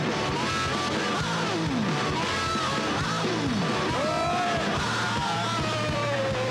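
Live blues-rock band playing loud, distorted electric guitar over drums, with repeated swooping, falling pitch glides and a long, slow falling glide over the last couple of seconds.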